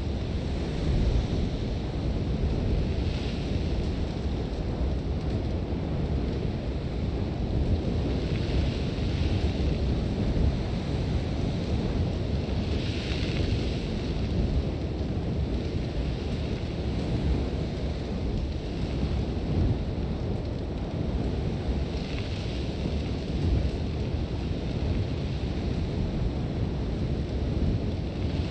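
Sandstorm wind blowing hard: a constant deep rumble, with a hiss of blowing sand that swells and fades every few seconds in gusts.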